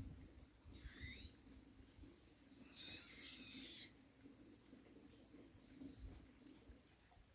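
Sayaca tanager (sanhaço-cinzento) calls: a short high call about a second in, a squeaky chattering burst lasting about a second around the middle, and a sharp high note near the end. From about halfway a thin steady high tone runs underneath.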